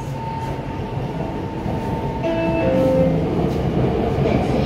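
Interior running noise of a CRRC Zhuzhou-built B-type metro train, with a steady electric whine that jumps through several pitches in steps. The train noise grows louder about two seconds in, as when the train is pulling away.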